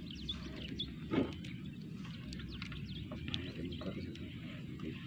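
Birds chirping in short, scattered calls over a low steady outdoor rumble.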